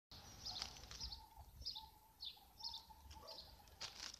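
Small birds chirping faintly: about six short, high calls, some falling in pitch, spaced roughly half a second to a second apart.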